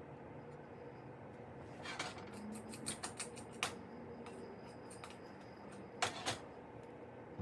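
Scattered light clicks and knocks of kitchen handling, with a louder double knock about six seconds in, over a steady low hum.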